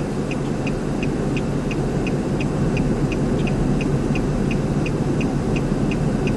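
Steady low rumble, like wind or a running vehicle, with a quick run of short high beeps repeating about three times a second throughout.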